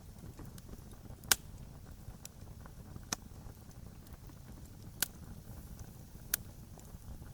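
Wood fire burning with a low steady rumble and small ticks, broken by four sharp crackling pops a second or two apart, the loudest about a second in.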